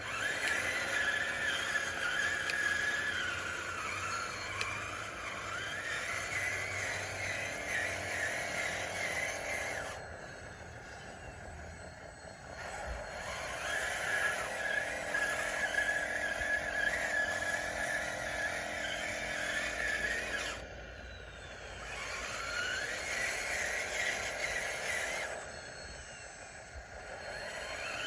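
RC bulldozer's electric drive motors and gearbox whining under load in long pushes. The whine drops away briefly a few times and sweeps back up in pitch as the dozer sets off again.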